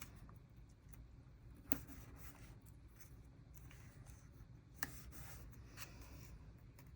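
Paper flower stickers being peeled from their sheet and laid onto a journal page: faint paper rustling with a few light ticks, the sharpest about two seconds in and near five seconds.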